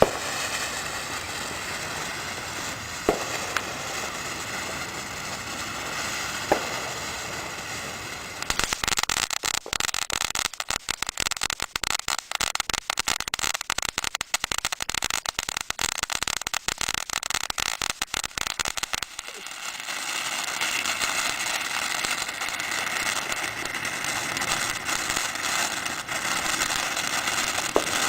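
Ground fireworks burning: a steady hissing spray with two sharp pops in the first seven seconds, then dense rapid crackling from about eight seconds in to about nineteen, then steady hissing again.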